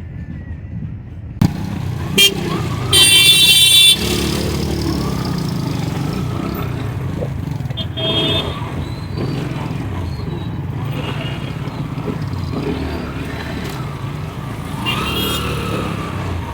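Road traffic noise with vehicle horns honking: a short toot, then a loud horn held for about a second, and more short toots later on.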